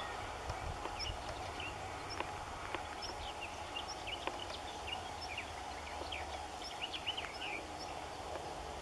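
Birds calling in short high chirps and quick rising and falling notes, with one thin high note repeated about once a second, over steady outdoor background noise.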